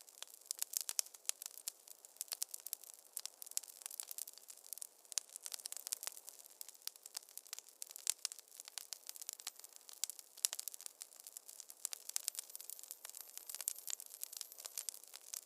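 Wood fire crackling in a fireplace: dense, irregular small pops and snaps over a faint hiss.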